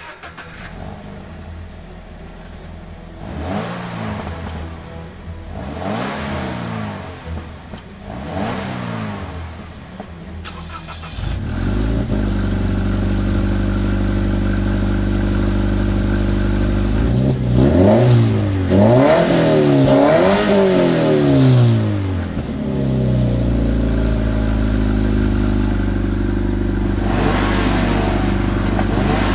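2013 Scion FR-S flat-four boxer engine idling and being revved. First the car on its factory intake and exhaust is revved three times at a lower level. About eleven seconds in, the car with the aftermarket cold air intake and chambered-muffler cat-back exhaust idles noticeably louder, gets a quick series of revs, then settles back to idle.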